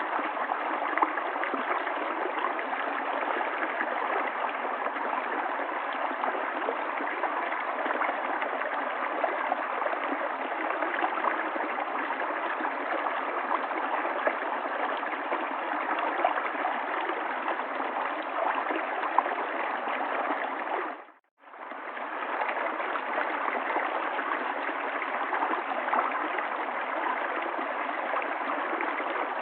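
River water flowing in a steady rush. About two-thirds of the way through it dips to silence for a moment and fades back in.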